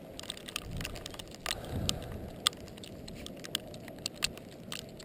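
Footsteps crunching in deep, fresh snow: irregular crunches with scattered sharp clicks.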